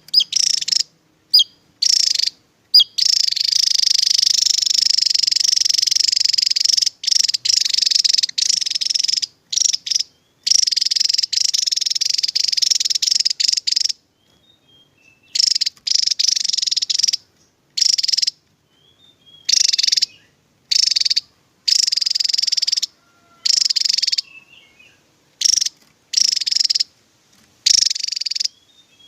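Javan tesia singing its rapid-fire song: high, fast chattering trills, one long run of about seven seconds and then short bursts of about a second each, separated by brief gaps and one longer pause near the middle.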